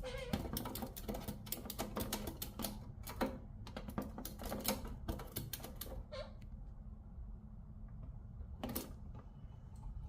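Senegal parrot at its cage making a quick run of sharp clicks for about five seconds, then a brief squeak about six seconds in and another short burst of clicks near the end.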